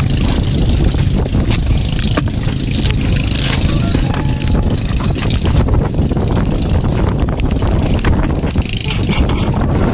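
A small boat's engine running while under way, a steady low rumble, with wind buffeting the microphone and a few short knocks.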